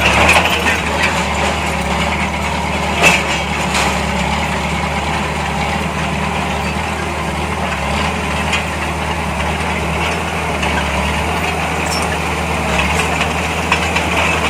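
Heavy diesel engine of earthmoving machinery running steadily at low revs, with a single short knock about three seconds in.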